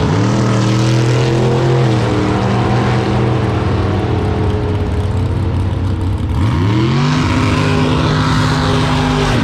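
Car engine revving up and holding steady revs, easing off about two seconds in, then revving up again about six and a half seconds in and holding.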